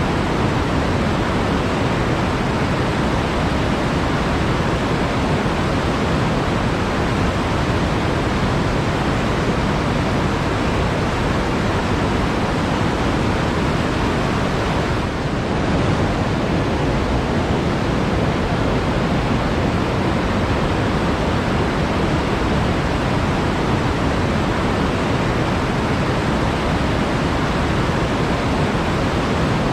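Flowing water rushing steadily in a forest, an even full hiss that dips briefly about halfway through.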